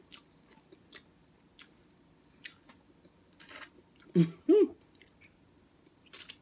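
Close-up eating sounds of a person chewing a mouthful of beef and bean burrito: scattered wet mouth clicks and smacks. About four seconds in come two short hums.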